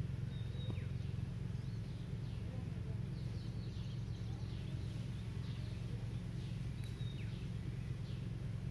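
Small birds chirping: many quick, short calls that sweep downward, scattered throughout, over a steady low hum.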